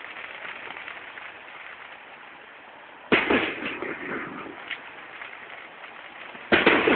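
Fireworks going off: two sharp bangs about three and a half seconds apart, each trailing off with a brief crackle, over a steady background hiss.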